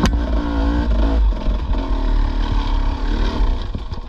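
Dirt bike engine running near idle, with a sharp click at the very start.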